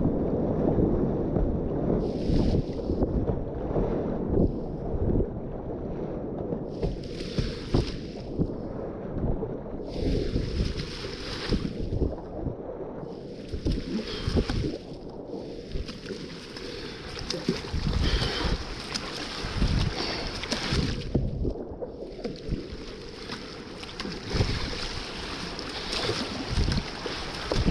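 Whitewater river rushing around a kayak, with a constant low rumble of wind buffeting the microphone. Bursts of splashing swell and fade every couple of seconds.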